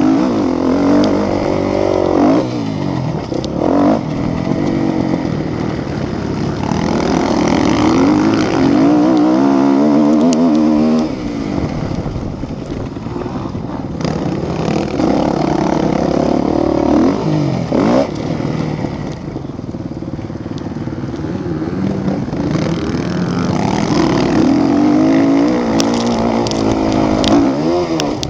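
Several motocross bikes racing, their engines revving up and dropping again and again through gear changes, with more than one engine heard at once. The sound fades somewhat about halfway through and builds again near the end.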